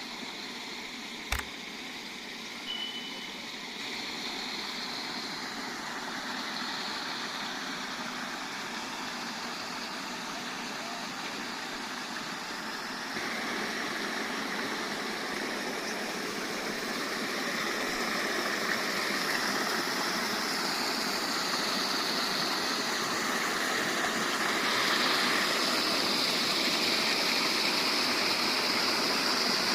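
Rushing rainwater runoff flowing after heavy rain: a steady rush that grows louder about halfway through and again near the end. There is a sharp click about a second in.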